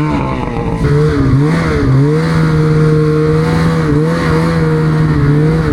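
Snowmobile engine running under way, its note held steady with a few brief dips in pitch as the throttle eases off and picks up again.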